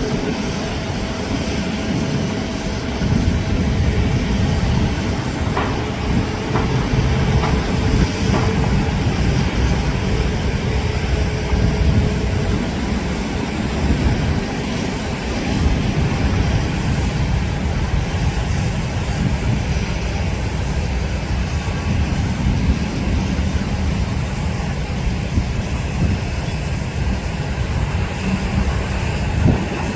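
Airbus A380's jet engines running at low thrust as it taxis: a steady rumble with a faint whine that fades out about twelve seconds in.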